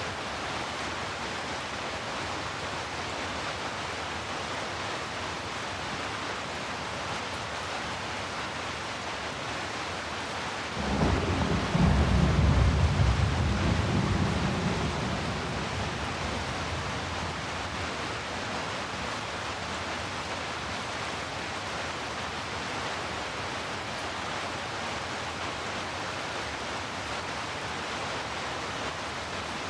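Steady heavy rain, with a roll of thunder about eleven seconds in: a deep rumble that swells for a few seconds and then fades back into the rain.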